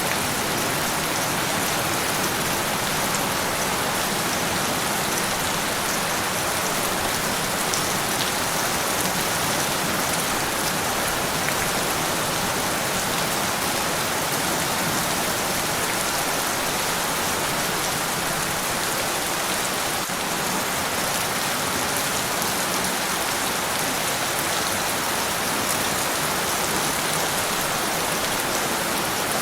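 Steady rain falling on a surface: an even hiss of rain with scattered drop ticks.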